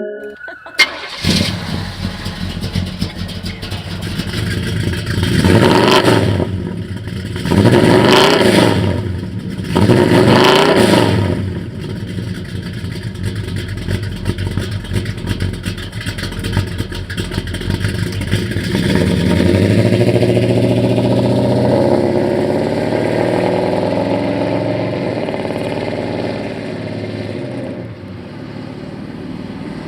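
Pontiac 400 V8 starting about a second in and idling, blipped three times with rising and falling revs, then running steadily at a slightly higher note for several seconds before easing off near the end.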